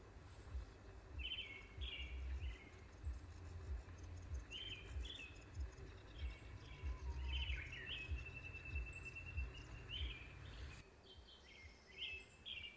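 Small birds calling repeatedly in short chirped phrases, with one longer trill about two-thirds of the way through, over a low rumble that drops away near the end.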